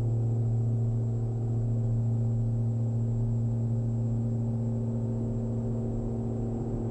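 Twin Austro AE300 turbodiesel engines and propellers of a Diamond DA42 NG at takeoff power: a steady drone with a strong low hum.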